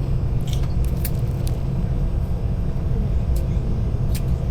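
Steady low rumble of an airliner cabin on the ground while the plane taxis or holds, with a few faint clicks.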